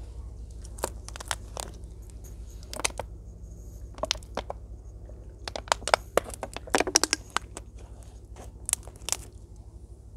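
Plastic water bottle being handled for a drink: a scatter of sharp clicks and crinkles, thickest a little past the middle, over a steady low hum.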